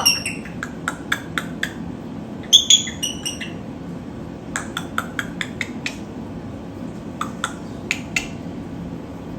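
Young pet bird making short chirps and sharp clicking sounds in scattered bursts, with a group of higher chirps about two and a half seconds in.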